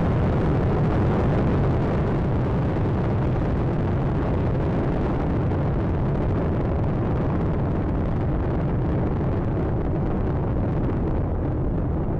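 Space Shuttle Atlantis ascending just after liftoff: a steady, deep rumble from its twin solid rocket boosters and three main engines.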